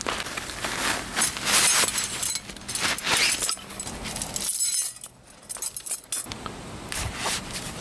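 Light metal camping gear clinking and rattling as it is handled, with a quieter pause of about a second and a half midway.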